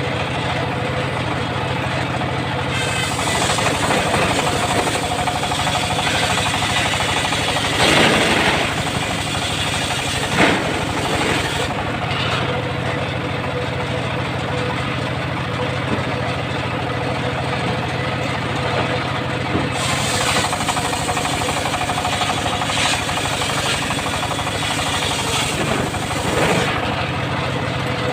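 Homemade circular sawmill running with a steady engine hum, its blade cutting through wood twice, each cut lasting several seconds.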